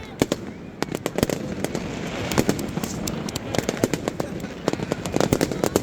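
Fireworks exploding in rapid, irregular succession: many sharp cracks and bangs, several a second, over the noise of a crowd talking and cheering.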